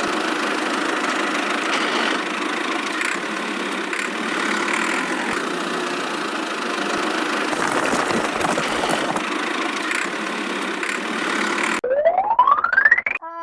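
A small motor running steadily with an even mechanical noise. Near the end a quick rising whistle-like glide cuts in.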